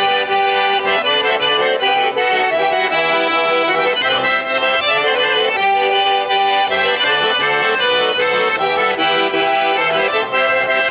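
Accordion playing a Russian folk chastushka dance tune with no singing, a quick run of melody over chords.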